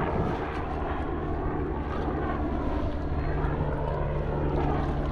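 A steady low engine drone, with an even hum of several tones and a hiss over it.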